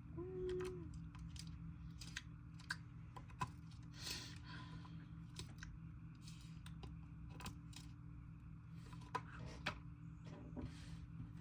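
Slime being handled and poked, giving faint, irregular small clicks and pops.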